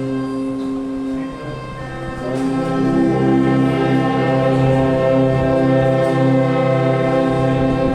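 A church orchestra playing a hymn in held chords, with voices singing along. The sound softens briefly about a second and a half in, between phrases, then swells into the next phrase.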